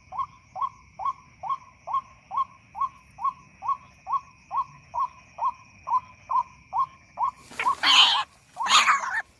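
White-breasted waterhen call: a monotonous run of short, identical hooting notes, a little over two a second. Near the end it turns into loud, harsh squawking calls.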